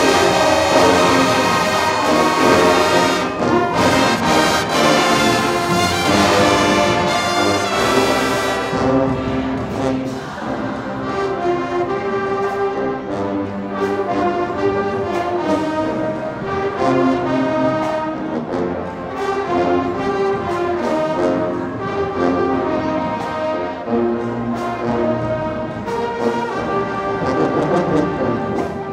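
High school marching band playing a brass-heavy piece. For about the first eight seconds the full band plays loudly with cymbals. After that it drops back to softer held brass chords over evenly spaced drum strokes.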